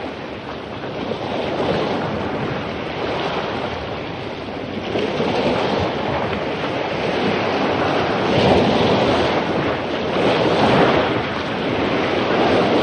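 Ocean surf crashing on a beach: a continuous rush of breaking waves that swells and ebbs, with the strongest breakers about two-thirds of the way in.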